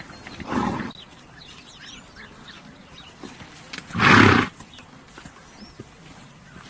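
A horse snorting twice: a short blow through the nostrils about half a second in, then a louder one about four seconds in. Small birds chirp faintly in the background.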